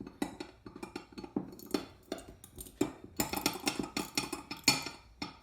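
A 5/16 socket wrench working the jets loose in a Bendix Stromberg WWC3-262 carburetor body: a run of irregular metallic clicks and clinks, busiest about three to five seconds in.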